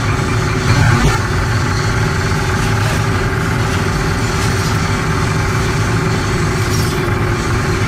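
Steady mechanical drone of running machinery with a faint constant tone, and a brief louder knock about a second in.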